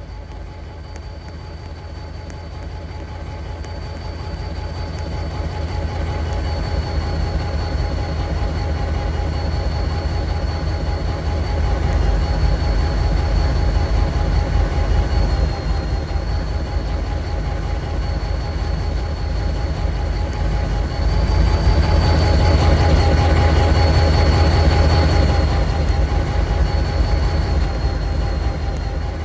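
Train running past with a heavy low rumble that builds and is loudest about two-thirds of the way through, over a steady high-pitched whine.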